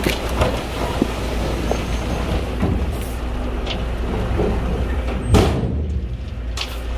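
Shantui bulldozer's diesel engine running steadily, with scattered metallic clanks and knocks; the heaviest knock comes about five and a half seconds in.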